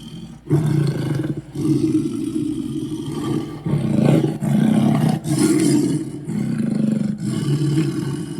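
Deep monster roars voiced for the demon Chernabog, about six in a row with short breaks between them.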